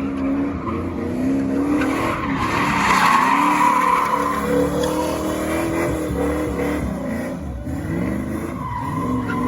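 Car engine revving hard in repeated rising and falling waves while the tyres screech, as in a burnout or donuts. The tyre screech is loudest about two to four seconds in.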